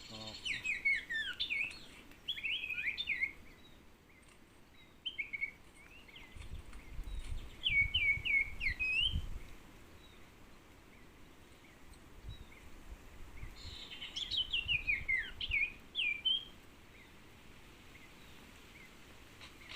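Common iora (cipoh) calls in four bursts of quick chirps that slide down and up in pitch, used to lure wild ioras to bird lime. A low rumble sounds under the third burst.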